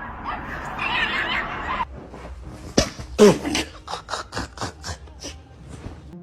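A person laughing in a run of short bursts, about three or four a second, fading out. It follows a different noisy sound that cuts off abruptly about two seconds in.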